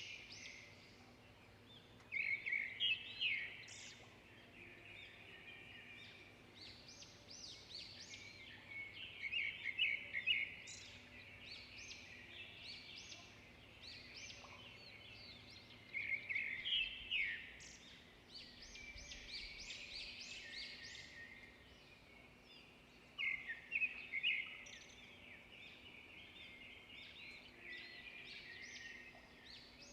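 Songbirds chirping and singing, with a loud burst of quick repeated notes about every six to seven seconds over quieter chirping.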